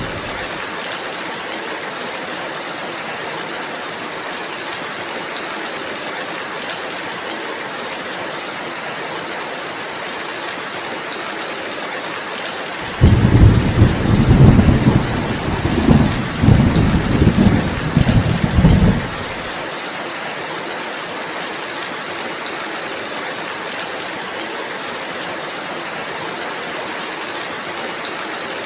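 Steady rain hiss, with a roll of thunder rumbling low and loud for about six seconds midway through.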